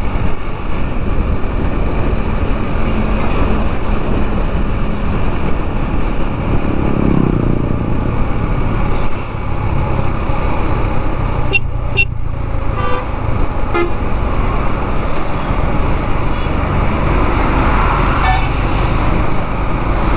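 Steady wind rush and engine of a KTM 390 Duke being ridden in traffic. Vehicle horns honk a few times about halfway through and once more near the end.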